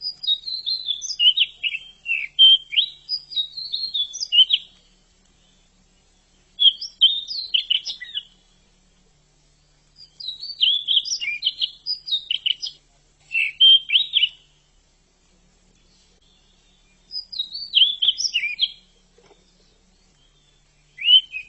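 Pied bush chat (decu) singing: short bouts of quick, jumbled high chirping notes, about six phrases separated by pauses of one to three seconds, the first and longest lasting over four seconds.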